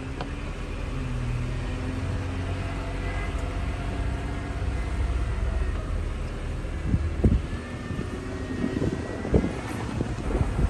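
Jeep Wrangler running slowly over trail terrain, a steady engine drone with a faint whine, with a few sharp knocks and bumps in the second half.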